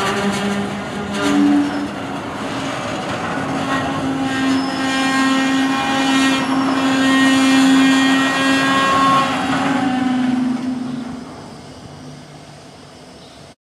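Double-stack intermodal freight cars rolling past, wheels clicking over the rail, with a few steady squealing tones from the wheels in the middle. The sound fades as the train moves off, then cuts off abruptly just before the end.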